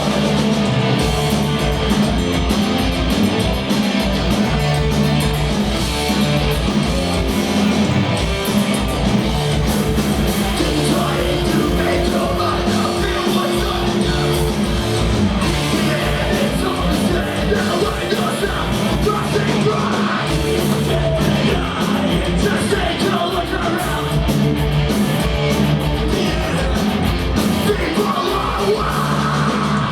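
Punk rock band playing live, loud and steady, with vocals over the full band.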